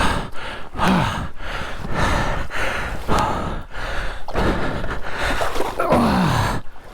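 A man breathing hard and grunting with effort, with short falling groans about a second in and near the end, between noisy rushes of breath.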